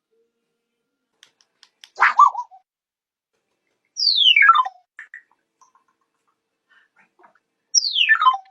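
African grey parrot calling: a loud squawk about two seconds in, then two whistles sliding steeply down in pitch, one around four seconds in and one near the end. A few faint clicks come before the squawk.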